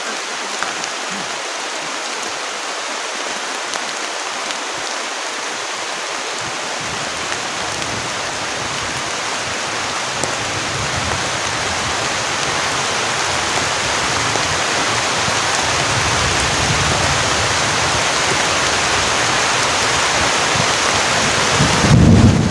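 Heavy rain pouring steadily, slowly growing louder. A brief low rumble stands out just before the end.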